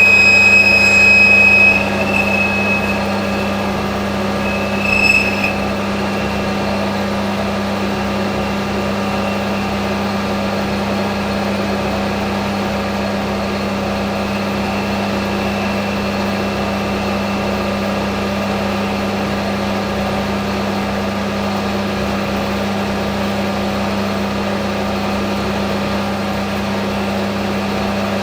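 Hafco AL960B metal lathe cutting, with a high-pitched cutting squeal that stops about two seconds in and comes back briefly around five seconds. After that the lathe runs on steadily.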